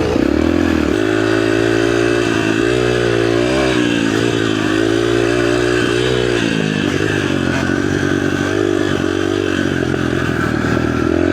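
A 65cc two-stroke mini motocross bike engine running as it is ridden, revving and easing off so that its pitch rises and dips several times.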